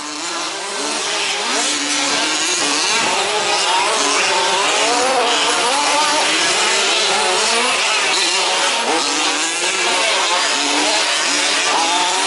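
Several 1/5-scale petrol RC off-road trucks with small two-stroke engines running together, their overlapping buzzing pitches rising and falling as they rev up and back off.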